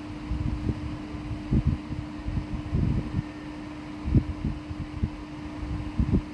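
Steady hum of an electric fan, with irregular low thumps and bumps.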